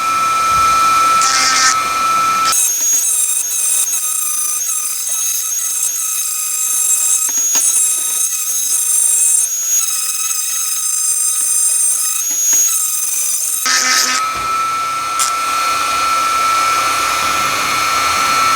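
Dremel rotary tool running with a grinding stone against the rusted steel of a G-clamp, a steady high whine. For about eleven seconds in the middle the sound turns thinner and higher-pitched before the lower whine returns.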